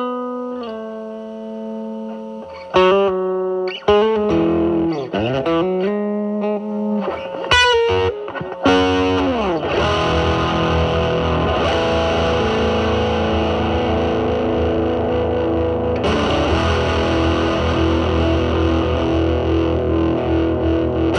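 Telecaster electric guitar through a Mosrite Fuzzrite clone fuzz pedal (2N2369 silicon transistor) into a Marshall Valvestate's drive channel. Picked notes and slides down the neck, then a thick distorted chord that is struck about nine seconds in and left ringing.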